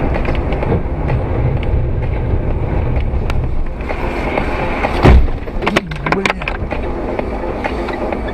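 Vehicle running with steady road noise. About five seconds in comes a loud heavy bang, followed by several sharp knocks, as in a collision.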